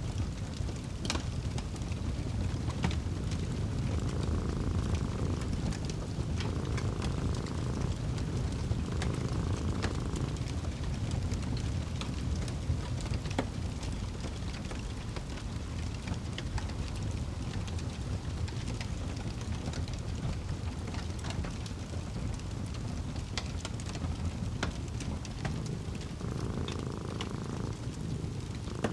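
Fireplace crackling, with scattered sharp pops over a steady low rumble. A cat purrs in slow in-and-out phrases a few seconds in, and again near the end.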